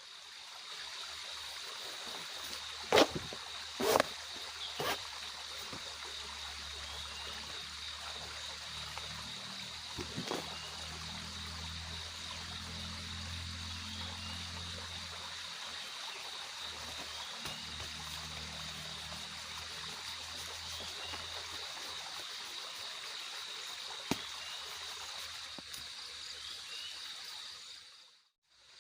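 Steady water noise in a forest at night under a constant high insect drone, with a few sharp knocks about three to five seconds in and one more around ten seconds. The sound drops away just before the end.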